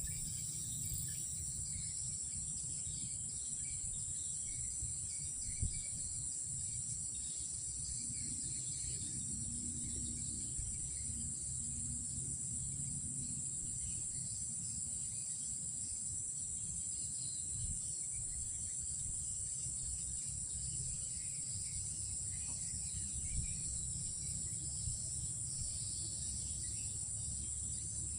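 Night insect chorus: a steady, high-pitched shrill that holds unbroken, over a low rumble and a few faint clicks.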